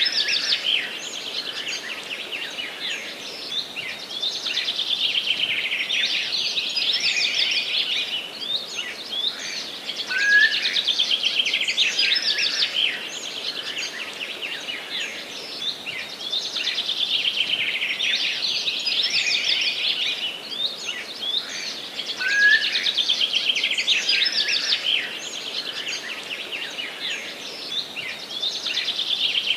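Forest songbird singing, repeating a long, fast, high-pitched song phrase every five seconds or so, over a faint steady background hiss.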